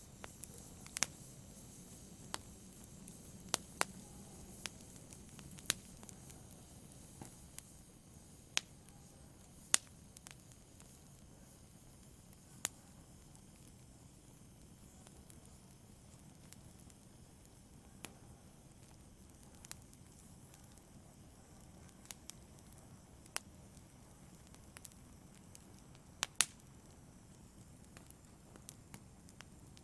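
Fire crackling in a fireplace: a soft, steady rustle of flames broken by sharp pops at irregular moments, a few every several seconds.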